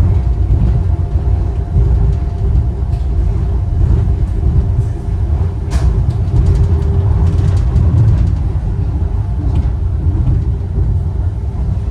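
Wuppertal Schwebebahn suspension railway car running: a steady low rumble with a constant hum. A sharp click comes about six seconds in, followed by a short rattle of clicks.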